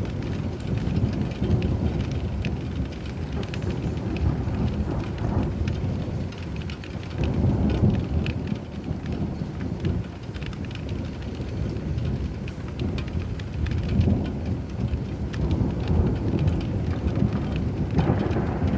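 Steady rain falling, with low rolling thunder that swells and fades a few times.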